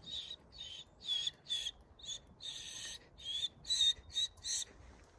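A bird calling over and over with short, harsh, high notes, about two a second.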